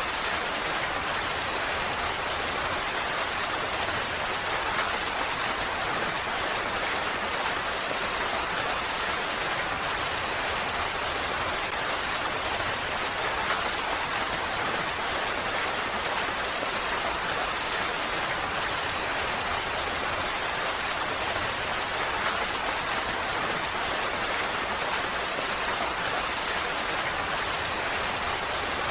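Steady heavy rain falling, a dense even hiss with faint scattered drop ticks.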